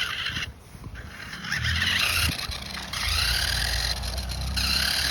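RC car's motor whining as it is driven, its pitch rising and falling in repeated bursts of throttle, with brief stops between them.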